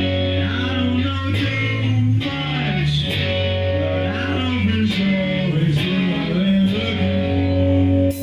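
Rock music on electric guitar and bass: a guitar melody with sliding, bending notes over long held bass notes.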